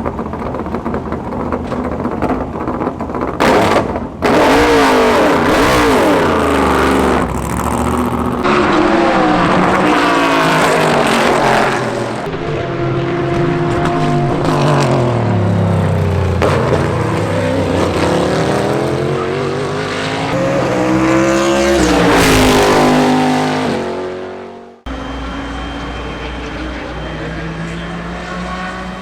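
Corvette Daytona Prototype race cars' V8 engines at racing speed, several cars passing by in turn, the note climbing through the gears and dropping as each one goes past. About 25 seconds in it cuts suddenly to a steadier, quieter engine note.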